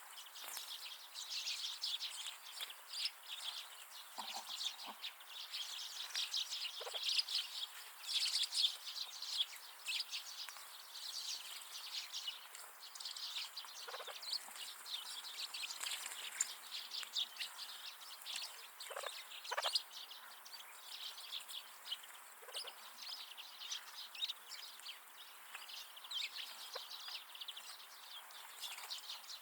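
A group of small wild winter birds chirping and twittering continuously, with a few short, lower calls now and then.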